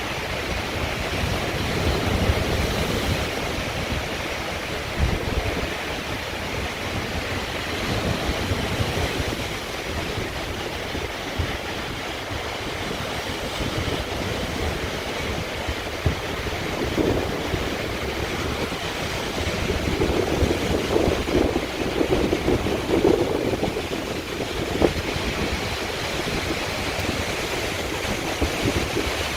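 Storm wind gusting hard against the microphone over heavy surf breaking on the rocks below, as a continuous rushing noise with low buffeting. There is a louder surge about twenty seconds in.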